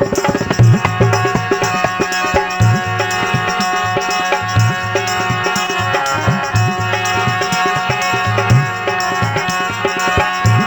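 Instrumental break in a Rajasthani folk song: a hand drum keeps a steady, rhythmic pattern under held, sustained notes from a melodic instrument, with no singing.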